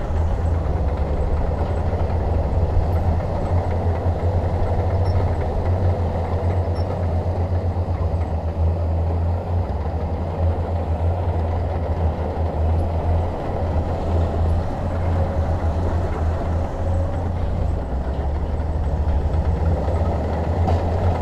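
Shantui DH17 bulldozer's diesel engine running continuously, a deep steady drone that rises and falls slightly as it works.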